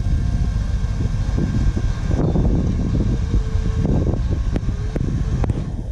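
Motorcycle on the move: steady engine and road rumble mixed with wind buffeting the microphone, with a few sharp ticks.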